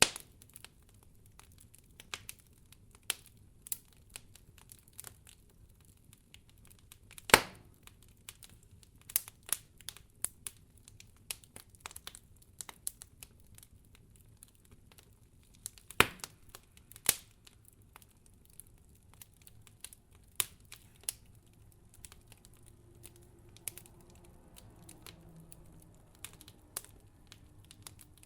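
Wood fire crackling, with irregular sharp snaps and a few louder pops over a low background.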